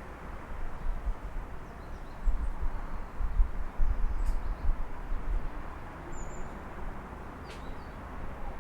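City street ambience heard through an open window: a steady hum of distant traffic with a low rumble that rises and falls. A few faint, short bird chirps come through over it, one around the middle and a couple near the end.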